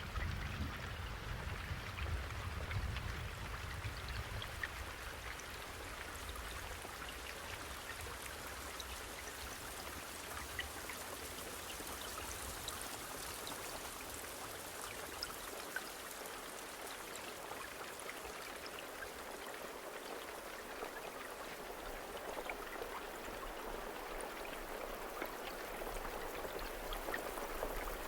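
Steady rain falling, an even hiss sprinkled with small scattered drip ticks. A low rumble underneath fades out over the first few seconds and returns faintly near the end.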